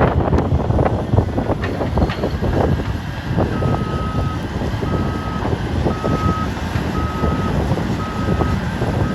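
Caterpillar 325D excavator running under load, with sharp cracks and knocks in the first couple of seconds. A few seconds in, a warning alarm starts beeping at one pitch, about once a second.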